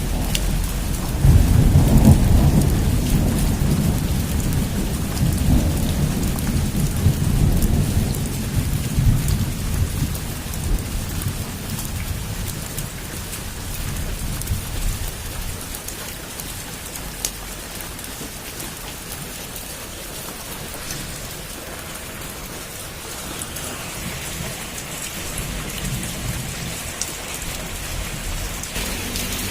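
Heavy rain pouring steadily, with a long roll of thunder that swells about a second in and slowly rumbles away over the next several seconds.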